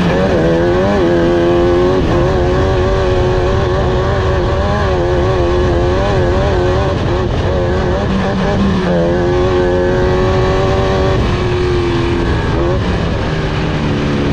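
Off-road race car engine running hard under throttle, its pitch climbing and dropping again and again as it revs through the gears.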